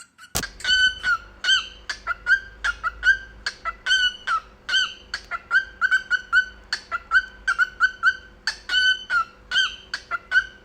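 Male cockatiel singing: a fast run of short whistled chirps, about three a second, some bending up or down in pitch. A sharp click comes just after the start, and a steady low hum runs underneath.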